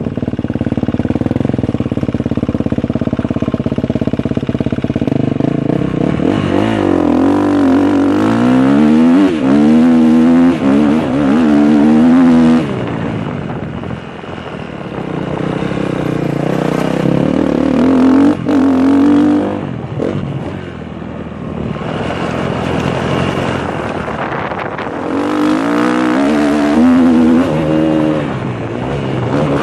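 KTM 250 SX-F four-stroke single-cylinder motocross engine, ridden hard. It climbs in pitch through the gears, then shuts off, several times over.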